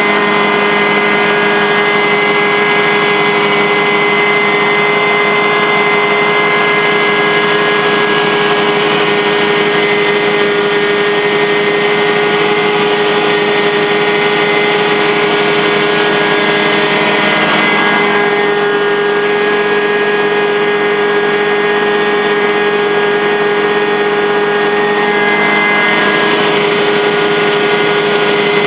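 Blue Baron truck-mount carpet cleaning extractor running at a steady, loud drone with a constant pitch, with a slight shift in tone about two-thirds of the way through.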